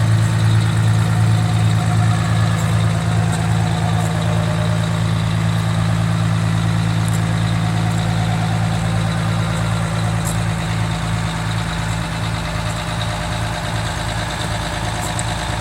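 Fire engine's diesel engine idling steadily with a low, even rumble.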